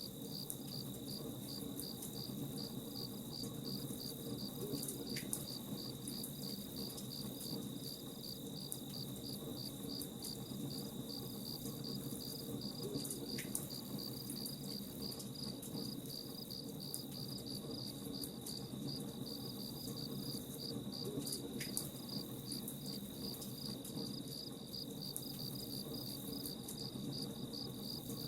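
Crickets chirping in an even pulse, about three chirps a second, over a steady low rush, with faint crackling from a campfire.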